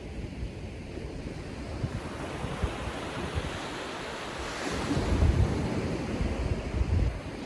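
Gentle ocean surf breaking and washing up the beach, a wave swelling louder about halfway through, with wind buffeting the microphone.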